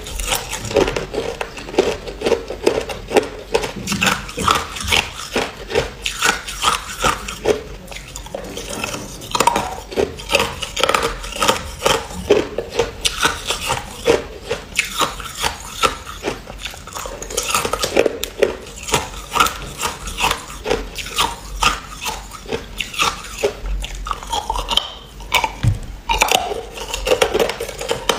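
A person biting and chewing ice, with a steady run of crisp crunches, two or three a second.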